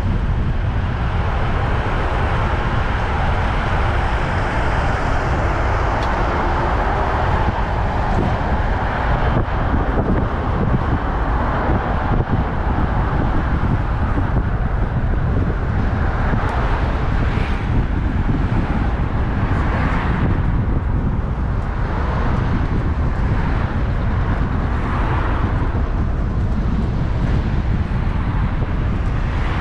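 Steady wind rush and rumble on a bicycle-mounted action camera's microphone while riding, with road traffic running alongside and several swells in the second half as vehicles pass.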